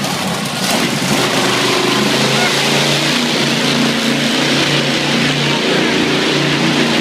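Monster truck engine running loudly, rising in level about a second in and then holding a steady drone.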